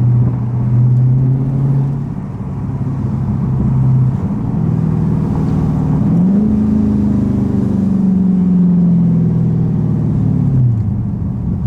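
Dodge Scat Pack's 392 HEMI V8 running with a loud exhaust: a steady note, then the engine speed rises about six seconds in, holds there for a few seconds and drops back near the end.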